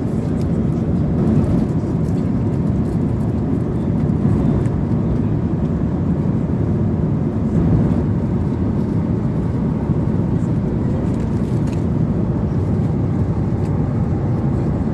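Steady cabin noise inside a Boeing 777-300 airliner in flight: a low, even rumble of engines and airflow.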